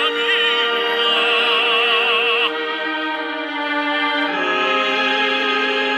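Operatic singing over orchestral accompaniment: a voice holds long notes with wide vibrato, moving to a new note about two and a half seconds in and again a little past four seconds.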